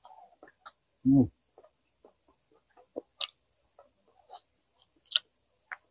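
Close-miked eating: scattered wet clicks and smacks from a mouth chewing, with a brief vocal sound about a second in.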